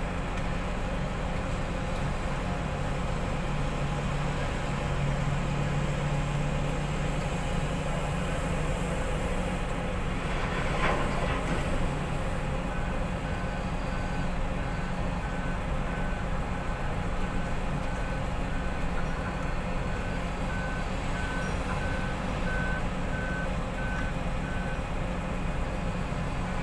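Heavy-equipment engine running steadily, with a single knock about eleven seconds in. From about halfway, a reversing alarm beeps at an even pace for around twelve seconds, then stops.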